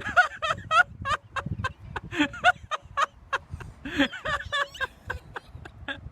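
Turkey gobbling: a rapid run of short, wavering calls that runs on throughout.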